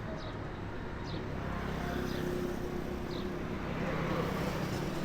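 Street traffic with motor engines running by, heard from a bicycle; the engine noise swells in the second half. Brief high chirps sound now and then.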